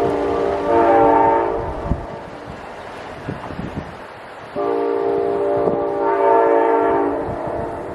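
Amtrak train horn sounding two long chord blasts, the first ending about two seconds in and the second starting halfway through, with a few sharp clacks from the train's wheels between them.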